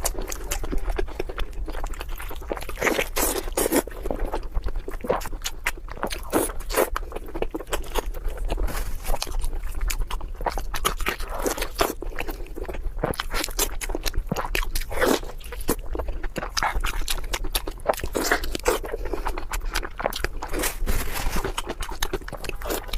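Close-miked chewing and biting of cooked pork tongue: a run of irregular mouth clicks, smacks and crunchy bites, over a steady low hum.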